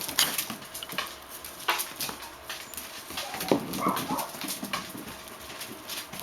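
Five-week-old Basenji puppies playing, with scattered scuffles and knocks. A couple of short, high puppy yips come about four seconds in.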